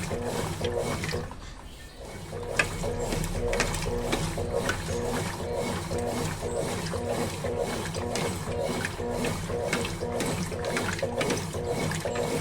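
Consul Facilite 11 kg top-loading washing machine in its wash cycle, the motor and drive running in a rhythmic mechanical whir with clicks, about three pulses a second. It stops briefly about a second in and starts again about two seconds in.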